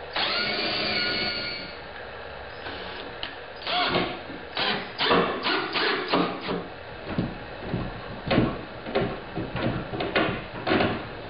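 A power tool whirs for about two seconds, then comes a string of irregular knocks and clacks as knobs are fitted to plywood cabinet doors.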